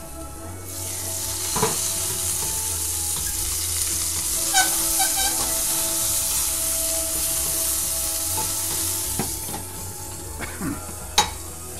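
Meatballs sizzling in hot oil in an uncovered skillet while being turned with a wooden spoon, with a few scrapes of the spoon about halfway through. The sizzle dies down after about nine seconds, and a single sharp clack comes near the end, as of a lid set back on the pan.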